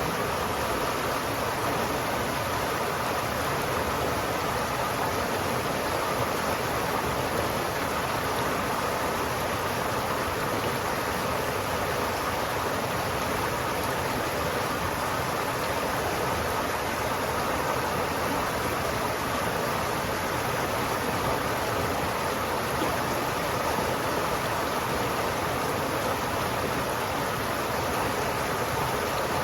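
River water flowing steadily, a constant rushing with no pauses or changes.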